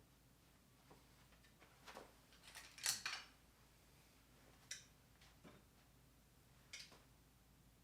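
Metal hand tools clinking and clattering as they are picked up and set down, with a scattered handful of short knocks and clinks; the loudest comes about three seconds in.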